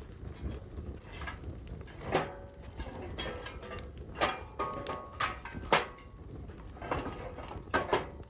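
Irregular knocks and clinks of hard objects being handled, a few of them ringing briefly like metal or dishware.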